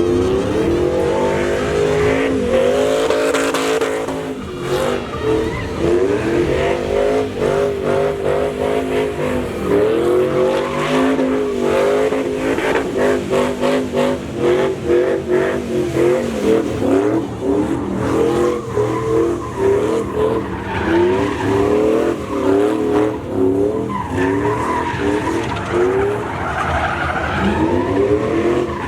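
Truck engine revved hard during a burnout, its pitch climbing and dropping again and again, choppier in the second half, over a steady hiss of spinning, squealing tyres.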